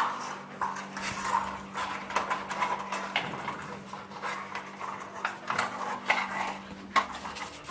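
Labrador puppies moving about and playing, with a busy run of small clicks and clattering knocks.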